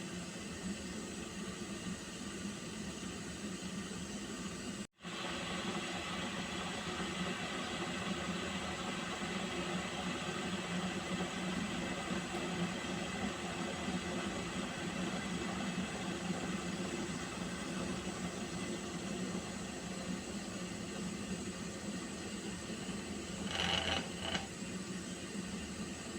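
Pot of water heating toward the boil: a steady hiss with a low hum, cut off for a split second about five seconds in, and two short louder bursts near the end.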